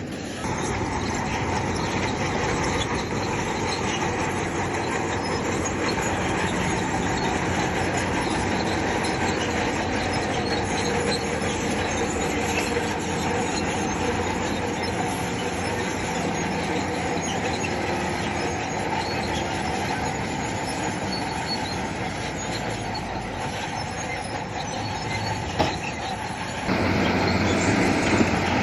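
Crawler bulldozer working, its diesel engine running while the steel tracks squeal and clank. The sound changes and grows a little louder near the end.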